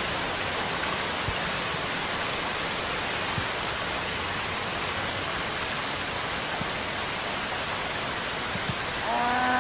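Steady rainfall, an even hiss with faint drip ticks every second or so. About nine seconds in, a louder steady pitched sound with several overtones starts over the rain.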